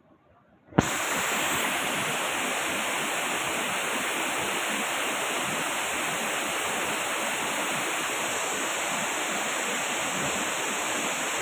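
Waterfall rushing in a loud, steady roar of water. It cuts in suddenly with a click less than a second in, after near silence.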